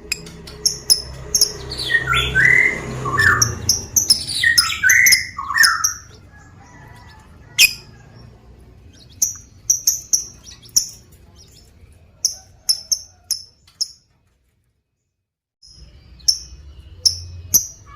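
Lovebird calling with rapid, sharp, high-pitched chirps. In the first few seconds these are mixed with a run of falling squawky notes. The calling breaks off completely for about a second and a half near the end, then the chirps resume.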